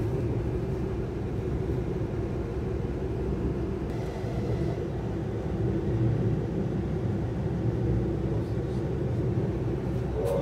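Inside the carriage of a Lastochka (Siemens Desiro RUS) electric train in motion: a steady rumble of the wheels on the track with a low, even hum.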